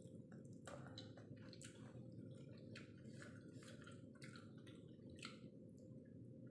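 Faint, wet chewing and mouth clicks from someone eating a cooked black chicken's head, many small sticky smacks scattered throughout, over a steady low hum.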